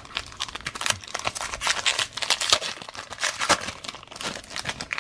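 Crinkling and rustling of a trading-card pack's wrapper and cards being handled: a dense run of quick, irregular crackles.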